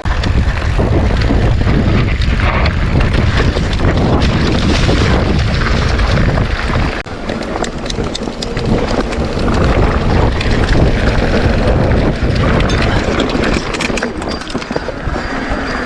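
Wind buffeting the microphone of a camera riding on a moving mountain bike, a loud continuous rumble with scattered rattling clicks from the bike over rough ground; it drops briefly about seven seconds in.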